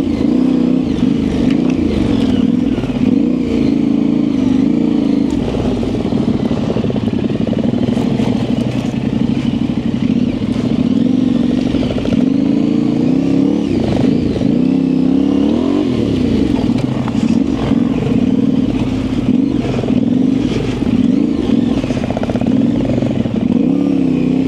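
Yamaha Ténéré 700's parallel-twin engine running at low speed on a dirt trail, its revs rising and falling with the throttle, with some clatter from the bike.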